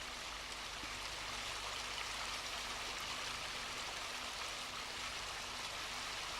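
Steady rush of river water flowing over a weir.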